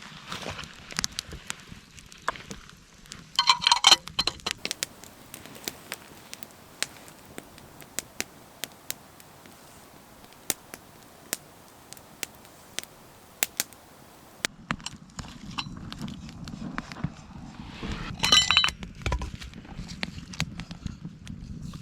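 Dry wood crackling and popping in scattered sharp cracks, typical of a campfire burning. There are two louder bursts of crunching and snapping, about four seconds in and again near the end.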